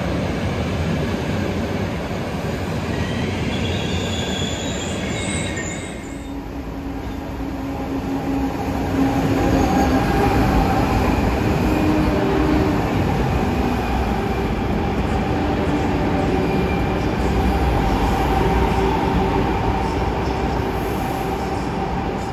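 Passenger trains running through a station. Train wheels squeal on the rails for the first six seconds or so. After an abrupt change, a ČD Pendolino high-speed electric train runs past with a steady hum over the rumble of its wheels.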